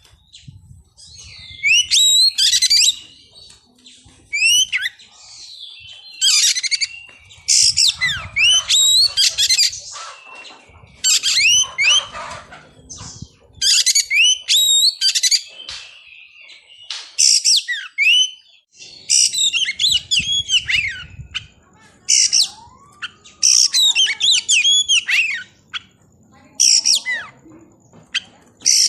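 Oriental magpie-robin (kacer) singing: loud phrases of quick sweeping whistles mixed with harsh notes, a new burst every second or two.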